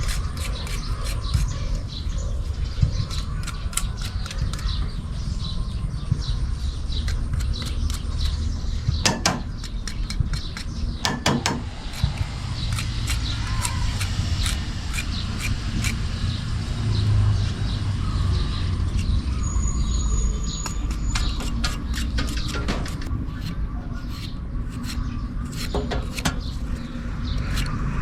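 Birds chirping over a steady low rumble, with many sharp clicks and knocks throughout.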